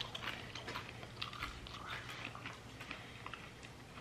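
Crunchy chewing of freeze-dried grapes: a run of faint, irregular crisp crackles as the dry, airy fruit breaks up between the teeth.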